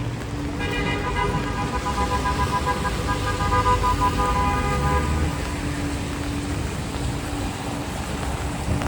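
A vehicle horn held in one long blast of about four and a half seconds, starting about half a second in, over the steady hiss of traffic on wet city streets.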